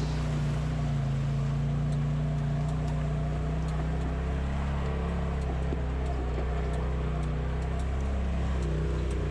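Polaris RZR side-by-side's engine running steadily with a low, even hum.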